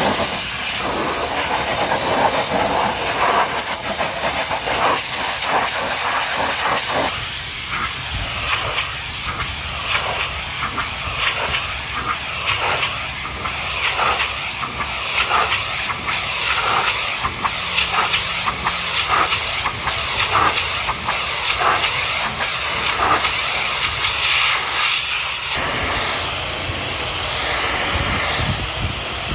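High-pressure washer jet spraying a truck, a steady loud hiss that surges in a regular rhythm, about once a second, as the spray sweeps back and forth over the bodywork.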